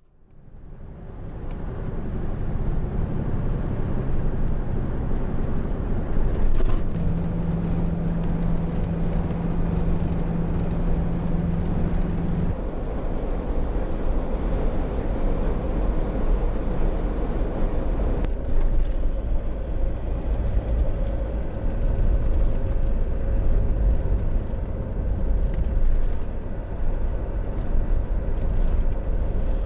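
Steady low rumble of a running vehicle, fading in over the first two seconds, with a steady hum that holds for about five seconds partway through.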